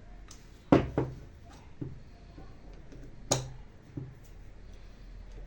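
Sharp knocks and taps of hard objects being handled and set down, as when parts and tools are worked on a bench. Two loud knocks come just under a second in and a little past three seconds in, with three softer taps between and after.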